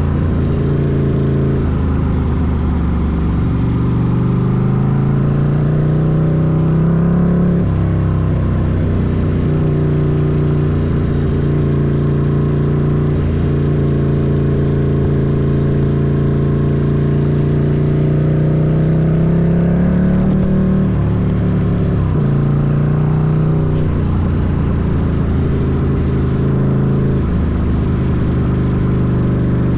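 Ducati Scrambler's air-cooled L-twin engine pulling a motorcycle along. Its revs climb and fall away twice, about seven and twenty seconds in, with steady cruising between.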